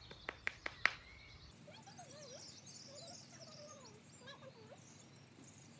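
A quick run of five sharp clicks within the first second, then faint outdoor birdsong: wavering warbled phrases and small high chirps.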